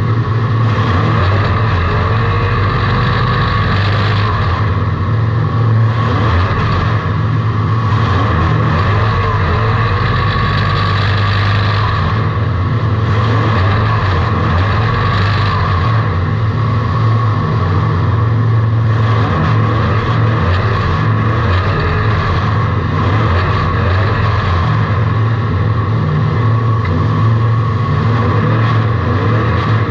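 Race car engine running at a steady, unchanging pitch, heard from inside the car's cabin.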